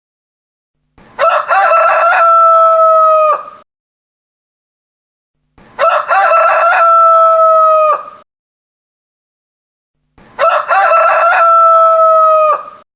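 Rooster crowing three times, evenly spaced about four and a half seconds apart. Each crow lasts about two and a half seconds: a few quick opening notes, then one long held note that drops off at the end.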